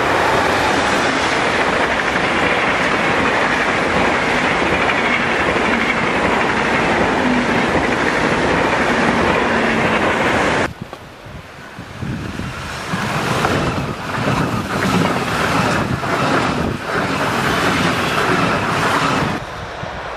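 ICE high-speed train passing close at speed, a loud steady rush of wheels and air that drops off suddenly about ten seconds in. After it, an uneven gusting noise like wind on the microphone.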